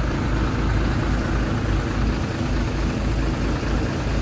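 Heavy diesel machinery engine running steadily, a low, even drone with no change in speed.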